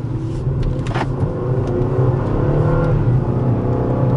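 Twin-turbo 3.5-litre EcoBoost V6 of a 2013 Lincoln MKS accelerating from low speed, heard from inside the cabin, its note rising in pitch and getting louder over the first couple of seconds. A single sharp click comes about a second in.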